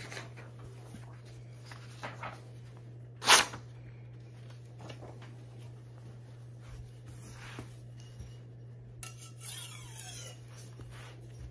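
A Wusthof Classic chef knife's blade drawn across a sharpening stone in a few scattered strokes, over a steady low hum. The loudest is a sharp scrape about three seconds in, and a scratchier stroke comes near the end.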